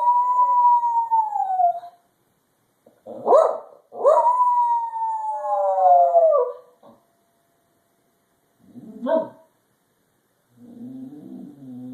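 Pet dog howling because she misses her owners: one long howl that slowly falls away, a short yip, then a second long howl sliding down in pitch. A single short bark follows about nine seconds in.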